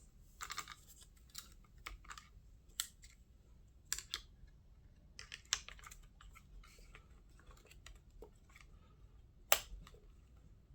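Irregular light clicks and taps of a screwdriver and small screws as the center brace is screwed back onto an RC monster truck, with the loudest click near the end.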